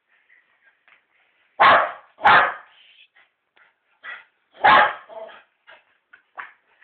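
A dog barking three times, loud sharp barks, the first two close together and the third a couple of seconds later, with fainter short yips between them. It is barking for chewing gum.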